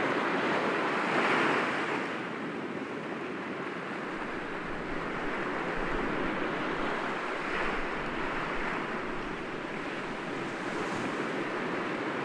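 Sea waves breaking gently against rocks, a steady wash of surf that swells briefly about a second in and again near eight seconds.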